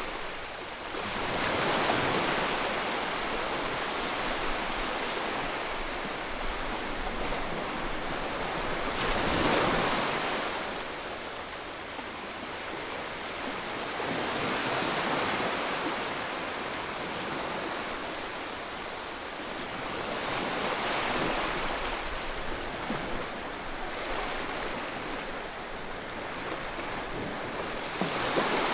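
Ocean waves breaking and washing on the shore, a steady rush of surf that swells louder every five to eight seconds as each wave comes in.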